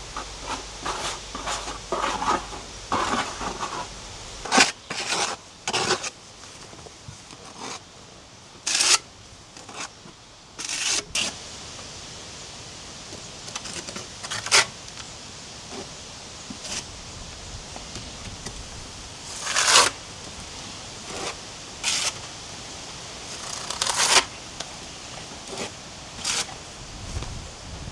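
A series of about a dozen short, separate scraping sounds, some sharp, spread through the stretch with quieter rustling in between.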